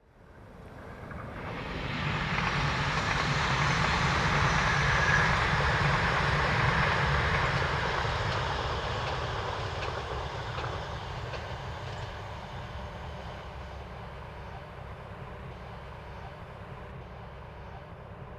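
E6 series Komachi mini-shinkansen train running past on conventional track, its rumble and wheel noise building to a peak about five seconds in, then fading slowly as it moves away.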